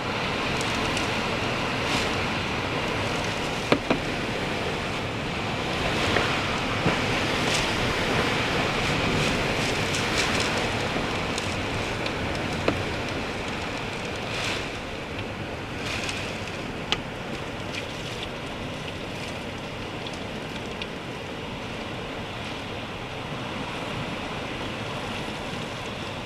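Hurricane wind and driving rain making a steady rushing noise that swells in gusts, with a few sharp knocks along the way.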